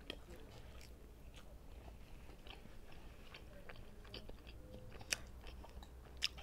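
Close-miked chewing of Adjarian khachapuri, cheese bread with egg: faint, irregular wet mouth clicks and smacks, with a couple of sharper clicks near the end.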